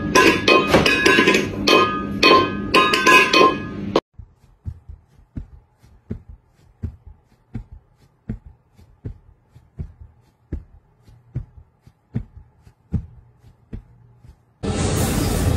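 Empty stainless steel food bowl being batted and pushed across a hard floor by a cat's paw, a fast run of metallic clanks that ring at the same pitches, for about four seconds. Then it breaks off into a quieter stretch of sparse, irregular clicks. About a second before the end, a loud, steady noise cuts in.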